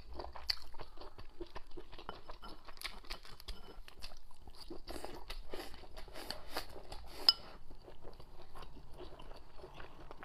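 Close-miked chewing of soft braised tofu skin and rice: wet smacking and small irregular crunchy clicks of mouth sounds. A single sharp click about seven seconds in.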